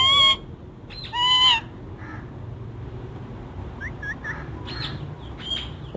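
A bird gives one short, clear call about a second in, followed later by a few faint high chirps.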